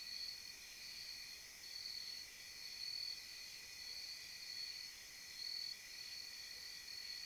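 Insect chorus: a steady high buzzing that pulses on and off about once a second over a continuous lower trill.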